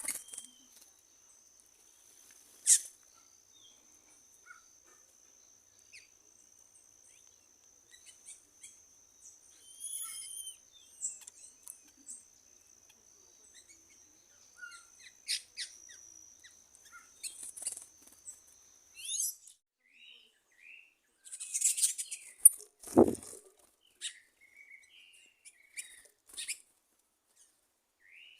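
Wild birds chirping and calling in short scattered calls, over a thin steady high whine that stops about two-thirds of the way through. A single sharp knock stands out near the end.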